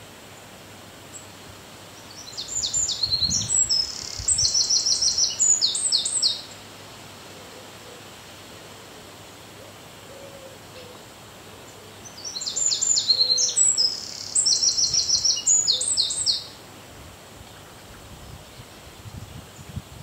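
A songbird singing two loud phrases of rapid, high repeated notes and trills, each about four seconds long, the second about ten seconds after the first, over a steady background hiss.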